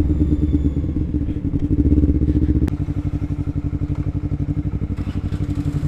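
Motorcycle engine breathing through a DX Generation Sphere Oval slip-on silencer, running with a heavier low rumble, then after a click about two and a half seconds in settling to a steady, evenly pulsing idle.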